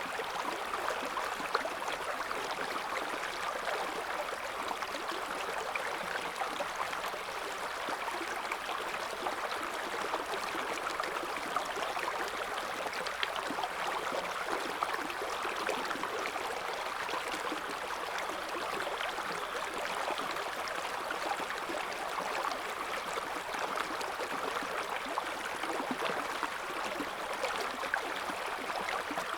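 River water flowing and gurgling over stones in a steady, even rush, with fine splashes and trickles throughout.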